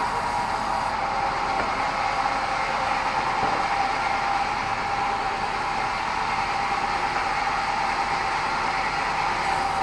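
Industrial band sawmill running steadily, sawing meranti timber: a constant high whine over a dense rushing noise.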